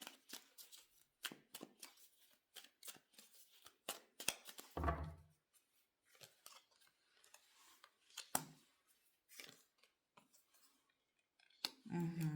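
Tarot cards being shuffled and handled, a quiet run of quick flicks and snaps, with a low thump about five seconds in.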